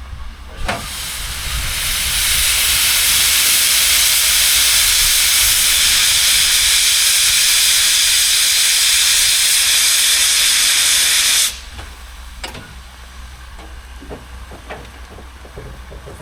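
Class 01 steam locomotive 01 066 venting steam with a loud, steady hiss that starts about a second in and cuts off suddenly after about ten seconds. A few faint knocks follow.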